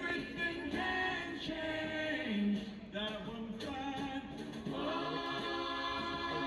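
Choral singing: several voices singing together in harmony, holding long notes.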